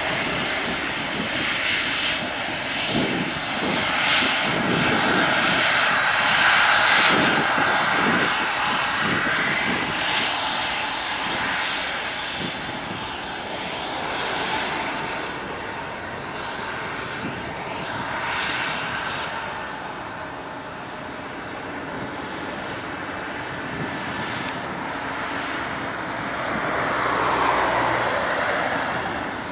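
Jet engines of a Bombardier CRJ-200ER regional jet, two rear-mounted General Electric CF34 turbofans, running with a steady rushing noise and a thin high whine. The noise is loudest a few seconds in and slowly eases off.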